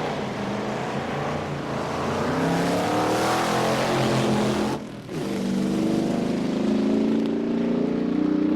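Early-1960s drag-racing engines at full throttle, the pitch climbing as they accelerate. The sound breaks off abruptly about five seconds in, and another run starts, rising again.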